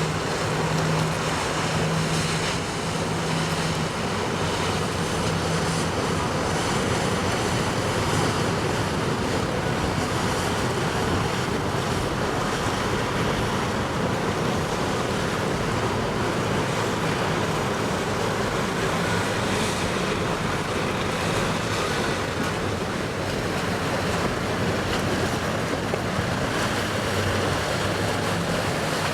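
Steady rush of surf and wind on the microphone, with the low hum of boat engines that is strongest in the first few seconds and returns near the end.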